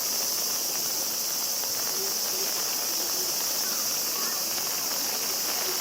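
Steady, high-pitched chorus of cicadas, with faint voices beneath it.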